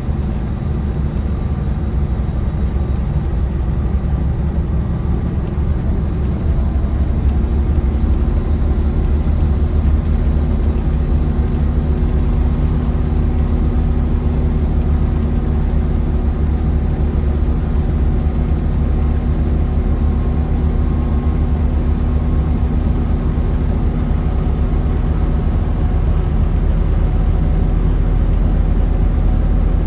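A Scania L94UB bus's DC9 nine-litre five-cylinder diesel and drivetrain, heard from inside the cabin while under way: a steady low drone that gets a little louder about seven seconds in.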